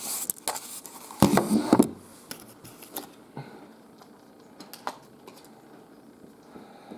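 Handling noise from a folding card hang tag and a plush toy being turned in the hands: rustles and light clicks, densest in the first two seconds, then only a few scattered ticks.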